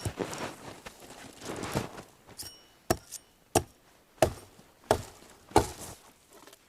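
Firewood being chopped, most likely birch: a few softer knocks, then five sharp, evenly spaced blows about two-thirds of a second apart in the second half.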